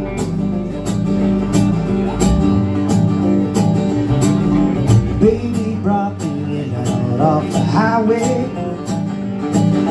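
Live country band playing an instrumental intro: strummed guitars over a steady drum beat of about two strokes a second, with a lead melody line bending in pitch about six seconds in.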